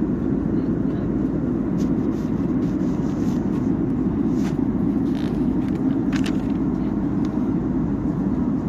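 Steady drone of a jet airliner's cabin in flight, a dense low rumble with no change in level. A few faint clicks and rustles come through it around the middle.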